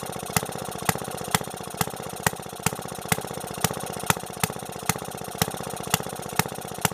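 Maytag vertical single-cylinder two-stroke engine running, a fast even patter broken by a sharp crack about twice a second, the pitch sagging a little after each one.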